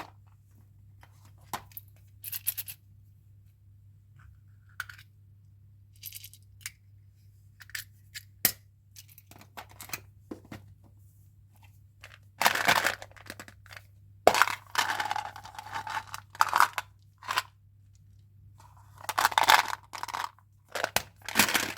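Chewing gum packaging being handled and opened: scattered light clicks and taps, with bursts of wrapper crinkling and tearing that grow louder and more frequent in the second half.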